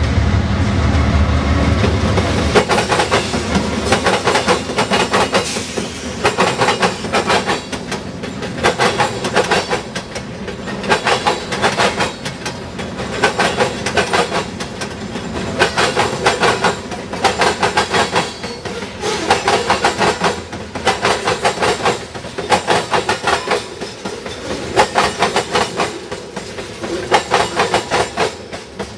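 Freight cars of a CSX train rolling over a railroad diamond crossing. The wheels clatter in groups of sharp clacks about every second as each truck bangs across the gaps in the crossing rails. A heavy low rumble fills the first two seconds or so, then drops away.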